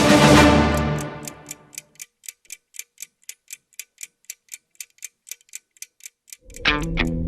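A clock ticking sound effect in a music soundtrack: an orchestral hit dies away, then even ticks come about four times a second, and distorted electric-guitar music comes in near the end.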